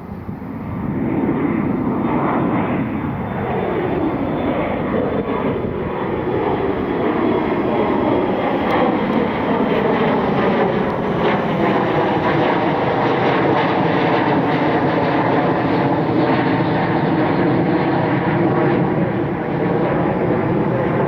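Twin turbofan jet engines of an Embraer E175 regional jet at takeoff power as it departs, swelling about a second in and holding loud, with slowly sweeping tones as the jet moves past.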